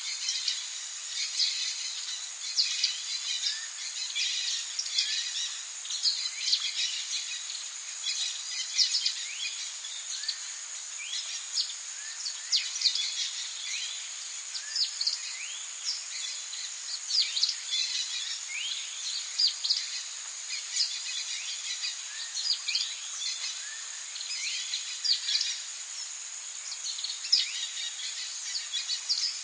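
Tropical rainforest ambience: many birds chirping in quick, short calls that slide in pitch, over a steady high-pitched insect drone.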